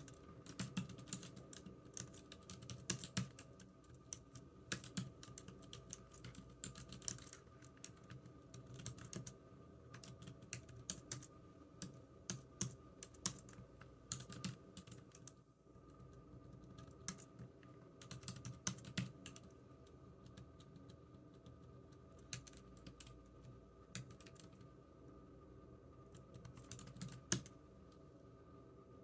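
Computer keyboard typing: irregular runs of keystrokes with short pauses, a brief gap about halfway through, and sparser keystrokes in the last third.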